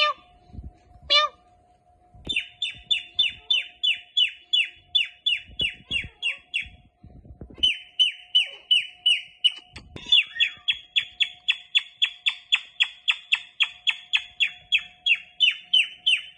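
Indian ringneck parrot giving rapid, repeated shrill calls, each falling in pitch, about four a second, in two long runs with a brief pause near the middle.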